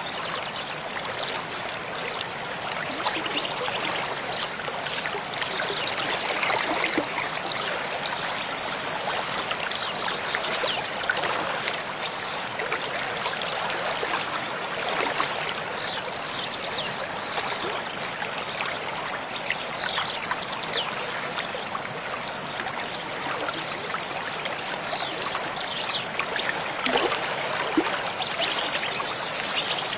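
Mountain stream flowing over rocks: a steady rush of water with constant small gurgles and splashes.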